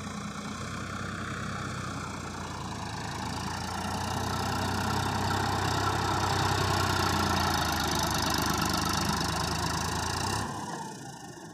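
Sonalika RX 50 Sikander tractor's diesel engine running steadily, getting louder about four seconds in. The sound falls off suddenly near the end.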